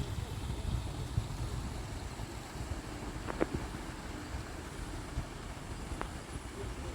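Wind buffeting the microphone outdoors, a fluttering low rumble, with two short faint clicks about three seconds in and again near six seconds.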